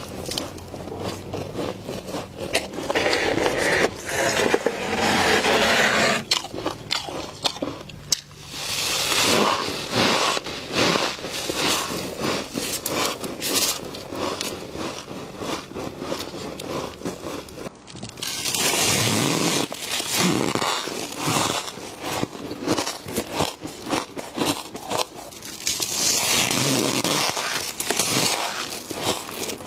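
Built-up freezer frost being scraped loose and crunched while eaten: a dense run of crackling scrapes and crunches, with louder stretches every few seconds.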